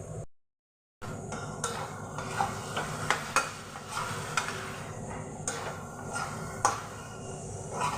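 Chicken and chopped banana-stem pith frying in a kadai, sizzling steadily as it is stirred, with the spatula clicking and scraping against the pan several times. The sound drops out briefly just after the start.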